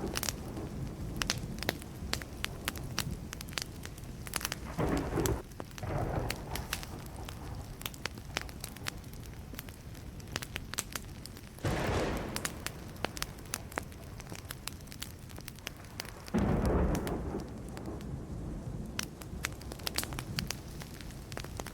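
Wood campfire crackling and popping steadily, with short rumbles of thunder about five, twelve and seventeen seconds in.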